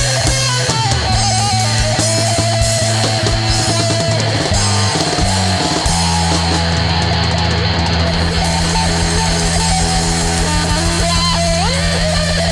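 Psychedelic rock band playing electric guitar over bass and drums. A low note is held from about halfway, and a guitar line slides up in pitch near the end.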